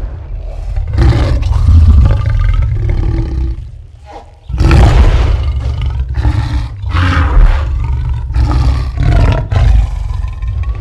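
Allosaurus dinosaur roar sound effects: a run of deep, rumbling roars and growls. The roaring drops away almost to nothing about four seconds in, then a loud roar breaks in and is followed by several shorter roars.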